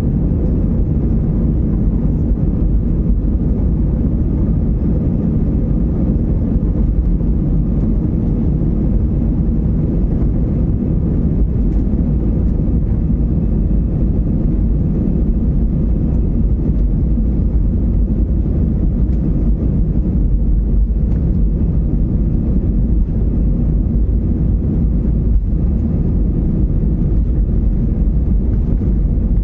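Airliner cabin noise: a steady, loud low rumble of the aeroplane's engines and airflow heard from inside the passenger cabin, unchanging throughout.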